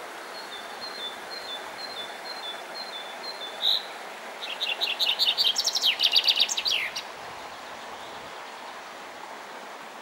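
Songbirds singing over the steady rush of running water: a high two-note call repeated about twice a second, a single loud note, then a louder, quicker burst of song about four and a half seconds in that ends in falling notes.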